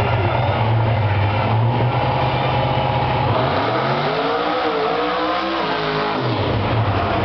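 A car engine idling steadily, then revved once about three seconds in. It is held high for a couple of seconds, then drops back to idle near the end.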